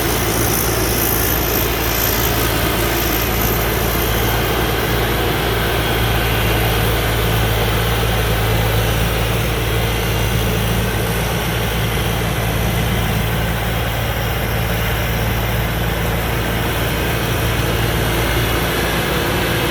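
Combine harvester's engine running steadily at constant speed, a continuous low hum with a wide mechanical noise over it.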